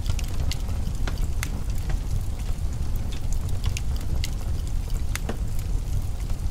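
Wood fire crackling in a fireplace: scattered sharp pops and snaps, a few of them louder, over a steady low rumble.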